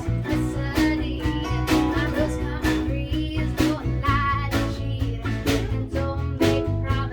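Acoustic country band playing an instrumental passage of a song: plucked guitar lines over a steady bass beat.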